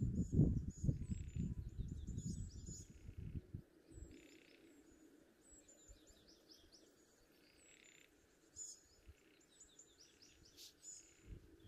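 Wild birds chirping and calling, short high calls repeating again and again. For the first three and a half seconds a low rumble on the microphone is louder than the birds, then it stops.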